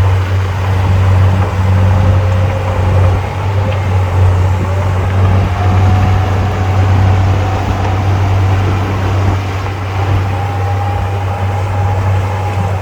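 Heavy diesel engine running steadily, with a faint whine that slowly climbs in pitch.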